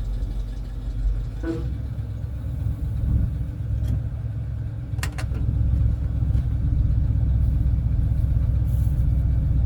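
1984 tow truck's engine running slowly with a steady low rumble while backing up, with a couple of short clicks about five seconds in.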